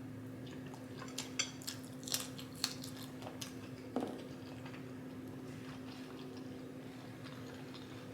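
Close-miked eating sounds: a person biting and chewing food, with a cluster of small wet clicks and crackles between about one and three and a half seconds in. A faint steady hum runs underneath.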